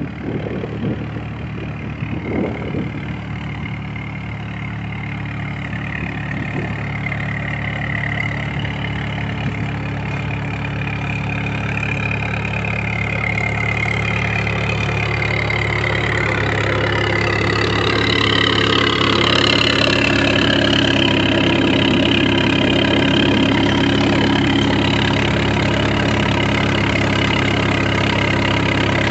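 An engine running steadily, growing louder over the first two-thirds and then holding steady.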